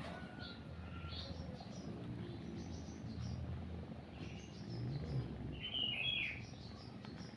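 Birds chirping and tweeting in short high calls, with a louder chirp about six seconds in, over a low, steady cat purr.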